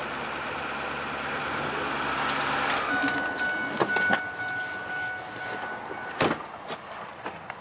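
Ford F550 truck engine running, then shut off about three seconds in. A steady electronic chime tone sounds for about three seconds with a few clicks, then a truck door shuts with a loud thud just after six seconds.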